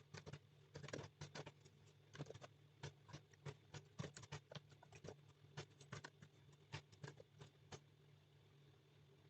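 Faint typing on a computer keyboard: quick, irregular keystrokes in short runs that stop about two seconds before the end, over a steady low hum.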